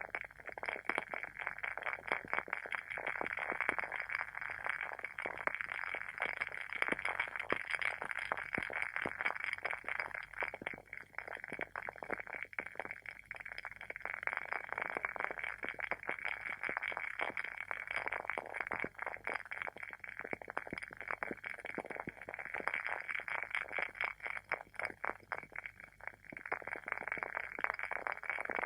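Wooden candle wick burning with fast, continuous crackling, like a small fire.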